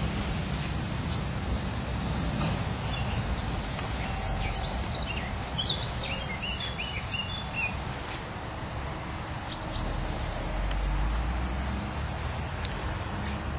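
Steady low outdoor rumble, with a small songbird chirping a quick run of short high notes from about three to eight seconds in.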